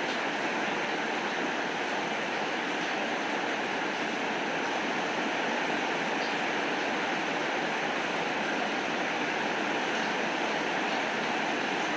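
Steady rainfall, an even, unbroken hiss of falling rain with a few faint scattered ticks.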